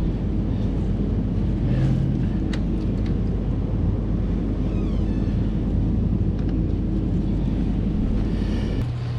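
Honda CB500X parallel-twin motorcycle engine running steadily under way, a constant low drone that cuts off suddenly near the end.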